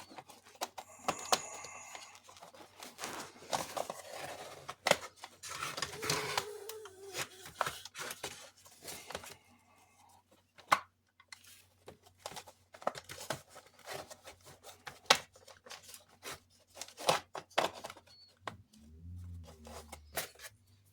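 Plastic parts of a robot toy being handled and fitted together: repeated sharp clicks and snaps with short scraping and rubbing of plastic on plastic. A brief low hum comes in near the end.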